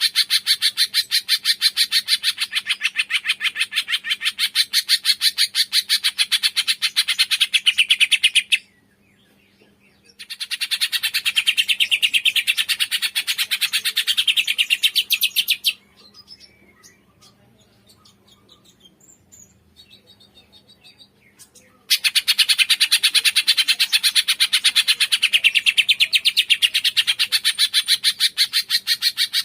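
Cungkok bird calling in a rapid, harsh chatter of quickly repeated notes, in long runs that stop briefly about a third of the way in and again for about six seconds past the middle, where only faint, softer twittering is left before the chatter resumes.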